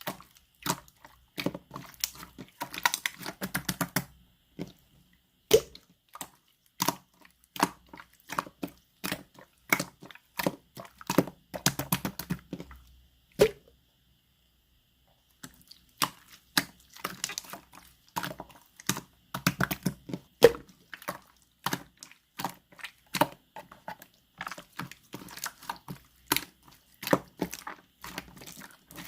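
Clear jelly-like slime being squeezed and pressed by hand, making rapid sticky clicks and pops of trapped air. It stops briefly twice.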